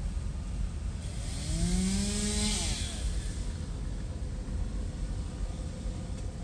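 A motor vehicle passing close by: its engine tone swells and then drops sharply in pitch as it goes past, with a rush of tyre and air noise at its nearest point. Wind rumbles on the microphone throughout.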